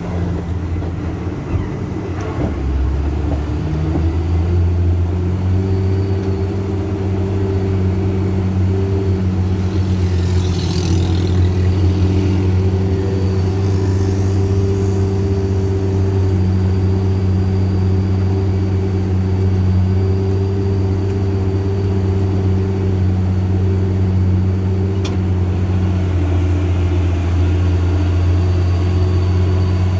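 Diesel truck engine running steadily under load on a steep uphill climb, a deep even drone. A brief hiss comes about eleven seconds in.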